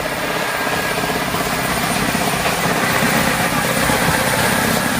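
A large engine running steadily and loudly, with a fast, even pulsing beat.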